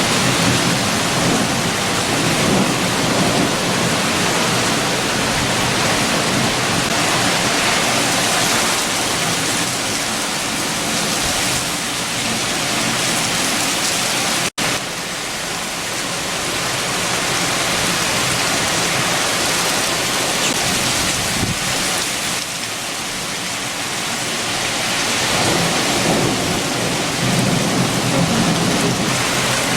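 Heavy rain with strong wind, a dense steady rush whose lower rumble swells and eases in gusts. The sound cuts out for an instant about halfway through.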